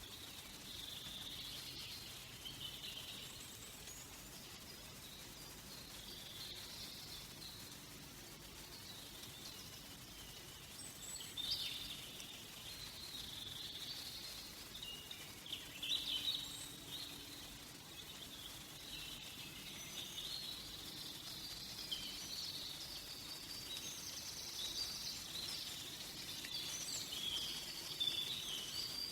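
Forest birds chirping and twittering, many short high-pitched calls overlapping, with a few louder chirps around the middle and busier calling near the end, over a faint steady background hum.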